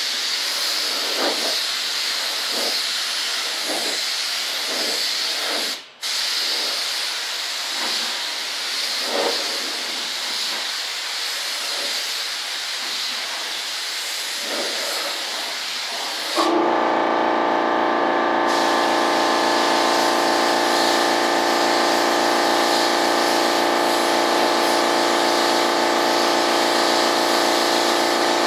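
Primer being sprayed onto a model jet, a steady hiss with a few short breaks. About two-thirds of the way in, it is replaced abruptly by a louder, steady droning machine sound with several held tones.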